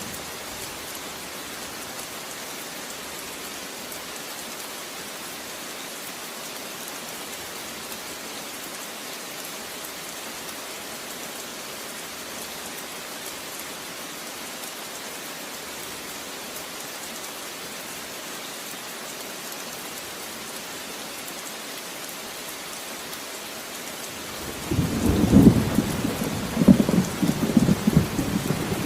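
Steady, even rain hiss. Near the end a loud, low rumble of thunder breaks in and rolls on with several swells.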